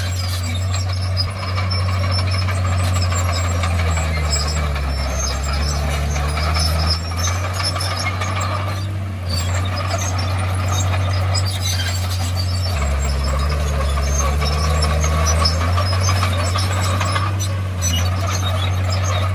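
Komatsu D51PX bulldozer's diesel engine running with a steady low drone, along with clattering from the machine. The engine note dips and comes back up twice, once about a quarter of the way in and again a little past the middle.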